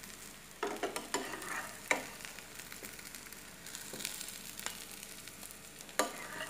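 Palak vadi (spinach and chana dal rolls) sizzling as they shallow-fry in oil in a nonstick pan, while a wooden spatula scrapes and knocks against the pan as the rolls are lifted out. The sharpest knocks come about half a second in, near two seconds and just before the end.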